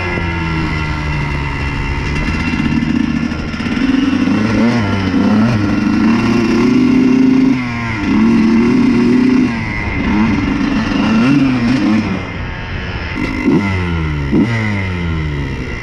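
Honda CR125's 125 cc single-cylinder two-stroke engine revving up and down repeatedly through the throttle, with a few quick sharp blips near the end.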